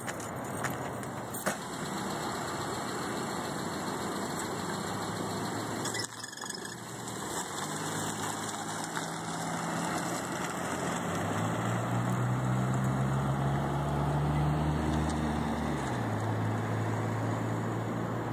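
A car engine running as a sedan pulls away across a parking lot. Its hum grows louder in the middle and drops in pitch a couple of seconds before the end. A few light knocks are heard in the first couple of seconds.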